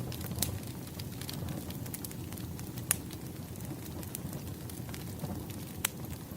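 Wood fire burning, with a steady low rumble of flames and frequent sharp crackles and pops of the burning logs, the loudest pops about three seconds in and near the end.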